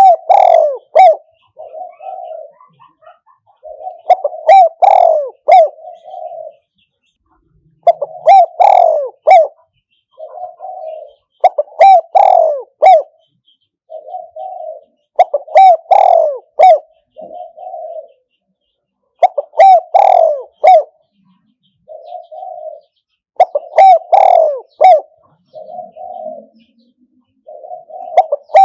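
Spotted dove cooing as a decoy bird to lure wild doves: a phrase of several loud coos with a softer trailing note, repeated about every four seconds.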